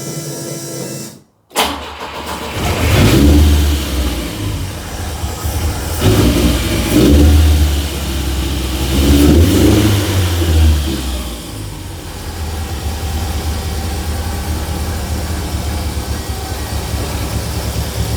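A steady whine cuts off about a second in. Then the Volvo 142's four-cylinder engine, on Speeduino fuel injection, starts. It is revved three times and then settles to a steady idle. It does not run properly, because its fueling and ignition timing are not yet set up.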